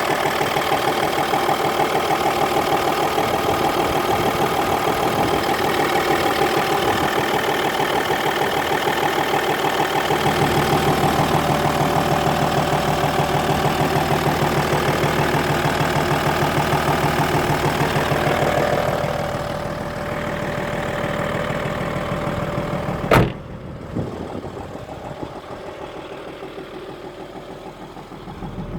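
Audi A6 C5's 2.5 TDI V6 diesel engine running with a rapid knocking rhythm, the engine knock the owner is showing. Near the end the sound drops and changes, then there is a single sharp bang, after which it is fainter.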